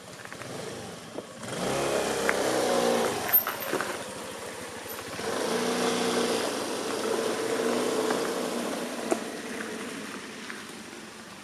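Small motor scooter engine running and revving: it comes up about a second and a half in, eases off, rises again to a steady note around five and a half seconds, then fades away.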